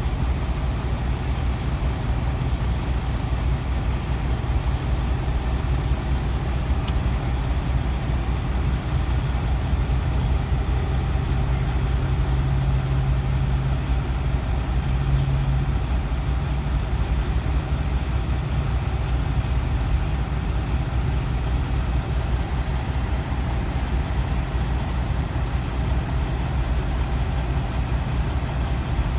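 Heavy truck's engine idling, a steady low hum, with one low tone growing louder for a few seconds near the middle.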